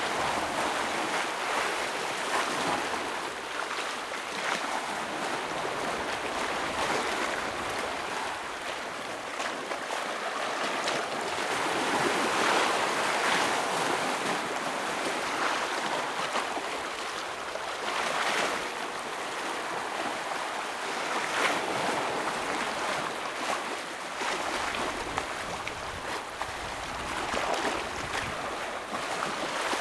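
Ocean waves breaking against rocks: a continuous rushing wash of surf that swells and eases, with several louder splashes.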